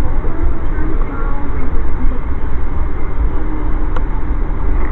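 Steady low rumble and rattle of a moving Amtrak passenger train, with a single click about four seconds in.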